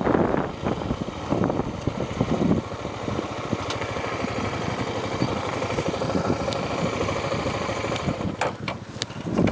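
Honda Tornado 250 single-cylinder motorcycle engine running. It is louder and rougher for the first couple of seconds, then settles to a steadier sound, with a few sharp clicks near the end.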